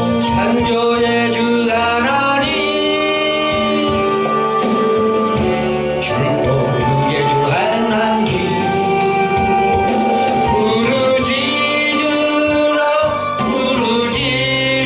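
Korean gospel song: a solo voice singing long, wavering held notes over a steady instrumental accompaniment.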